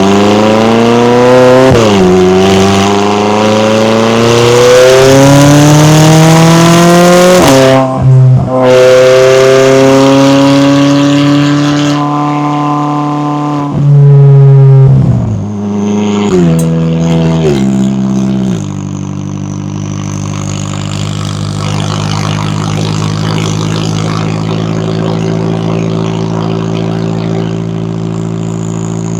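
McLaren 570S's twin-turbo V8 accelerating hard, its pitch climbing steadily and dropping sharply at each upshift, about two seconds in and again around eight seconds. Near the middle the revs fall away in several quick steps, and the engine then settles into a steady, quieter low note.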